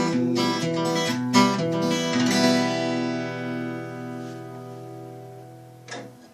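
Acoustic guitar strumming the closing chords of a song, ending on a final chord that rings out and slowly fades. A short scratchy noise near the end, as the ringing dies away.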